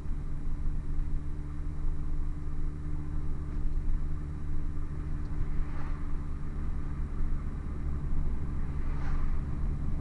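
Hartge MINI with a Hayward & Scott exhaust, its engine and exhaust running at a steady, unchanging pitch as the car cruises at constant speed. A few brief whooshes rise over it about six seconds in and near the end.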